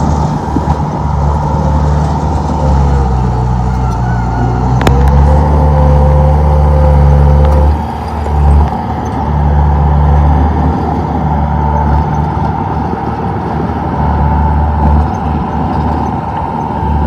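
Komatsu D31P bulldozer's diesel engine running steadily under load, its pitch dipping and rising a little as it works. A single sharp click about five seconds in.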